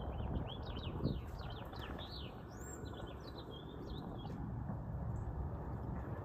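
Birds calling: a quick run of short falling chirps for the first two seconds or so, then a single rising whistle and a few scattered chirps, over a steady low rumble.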